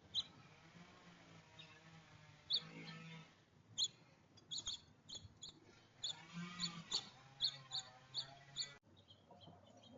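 Small songbirds at a feeder giving short, sharp chirps, scattered at first and then coming thick and fast through the second half over a faint low background hum.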